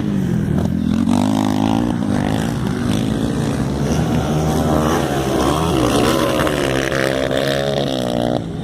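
Motocross dirt-bike engines running on the track, their pitch rising and falling as the riders rev and shift, more than one engine heard at once.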